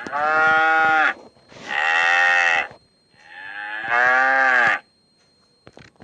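Bull mooing, three long lowing calls of about a second each with short pauses between them.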